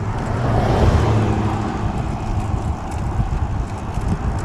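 Car traffic passing on the road alongside, a steady rumble of road noise that swells slightly about a second in.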